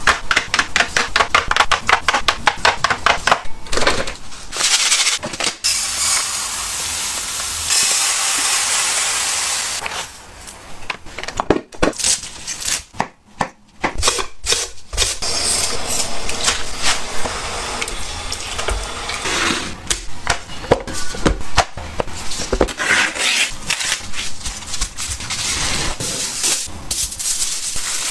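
Kitchen food-preparation sounds: a fast run of knocks, about six a second, then a few seconds of steady hiss, then scattered knocks and clatter.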